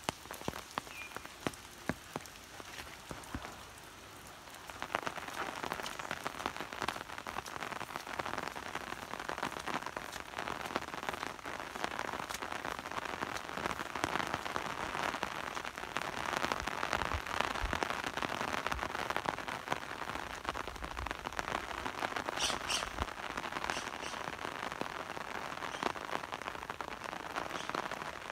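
Rain falling, at first light with separate drops ticking, then heavier and steadier from about five seconds in.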